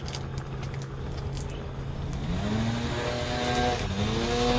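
Electric power sander's motor spinning up: its pitch rises about two seconds in, dips briefly, then rises again and holds steady over a low hum.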